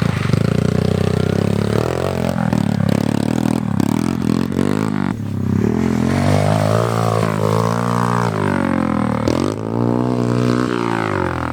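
Pit bike engine revving, its pitch rising and falling again and again as the throttle is worked.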